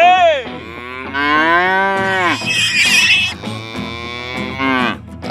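Cattle mooing: a series of drawn-out calls that rise and fall in pitch, the longest lasting over a second near the middle.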